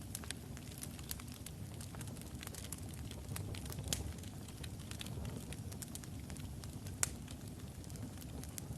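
Wood logs burning in a fireplace: a steady low rumble of the flames under scattered sharp crackles and pops, two louder pops about four and seven seconds in.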